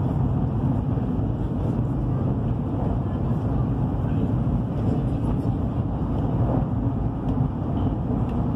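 Steady low rumble of a high-speed train running at speed, heard inside the passenger carriage.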